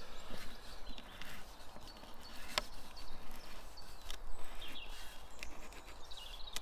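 Wooden pieces knocking and being handled as a piece of a bushcraft table is tried for fit, with one sharp knock about two and a half seconds in. Small birds chirp faintly in the background.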